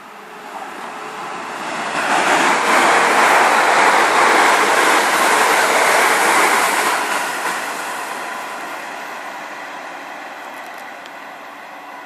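Train passing through at speed: the rush of its wheels on the rails builds over about two seconds, holds loud for about five, then fades away.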